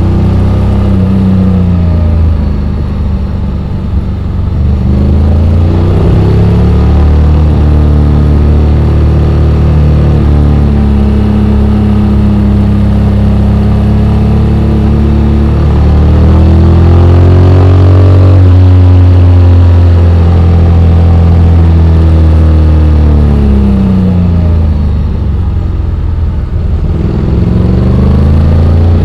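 Honda X-ADV 750's parallel-twin engine running on a downhill ride, its pitch rising and falling several times as the revs change.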